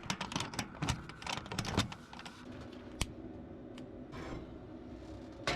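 A quick run of small clicks and rattles from things being handled while setting up to cook at a propane stove, then one sharp click about three seconds in.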